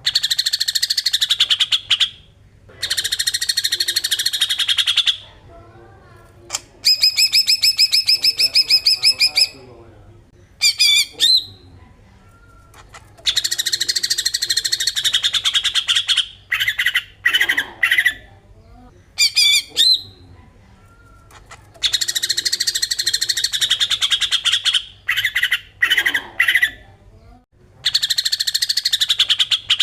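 Cucak ijo (green leafbird) singing in the fast 'besetan' style: repeated bursts of rapid, harsh chattering a few seconds long, with short pauses between. One burst near the middle is a quick string of clear, pitched repeated notes.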